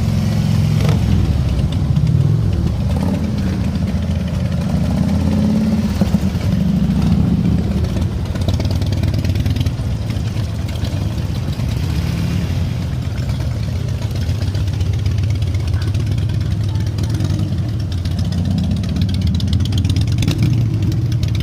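Several Harley-Davidson V-twin motorcycle engines idling together, with revs rising and falling now and then as the bikes are manoeuvred into parking.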